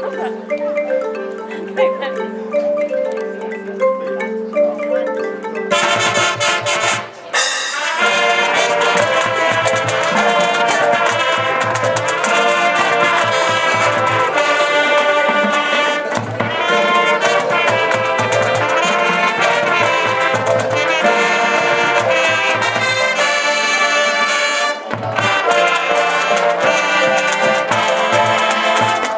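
Marching band playing: a repeating mallet-percussion figure over a held low note, then about six seconds in the full band of brass and drums comes in loud. The full band plays on, with a brief break near the end.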